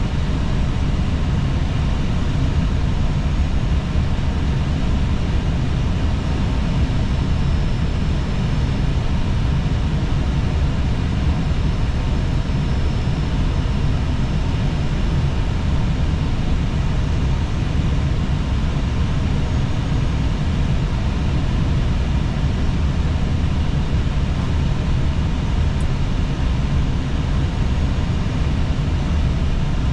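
Steady cockpit noise of an Airbus A320 in flight on approach: air rushing past the airframe with a deep, even rumble underneath and a fainter hiss above, unchanging.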